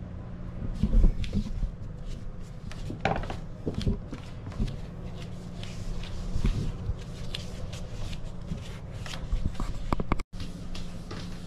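Foam flooring pieces being handled and pressed into place on a boat deck: irregular rustling, rubbing and light knocks, over a steady low hum.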